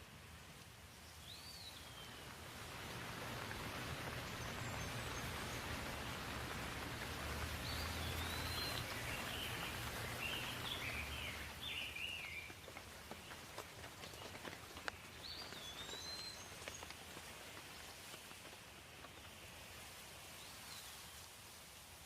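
Steady rain falling, building to its heaviest in the middle and easing off toward the end, with a bird chirping briefly a few times over it.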